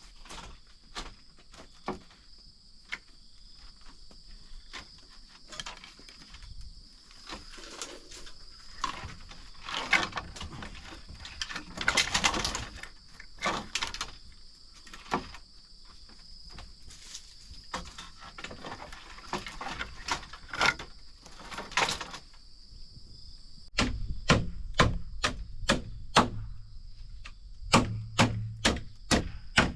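Scattered knocks and handling noises on wood, then, about three quarters of the way in, a run of quick chopping strokes on wood, about two or three a second with a short break. A steady insect drone runs underneath.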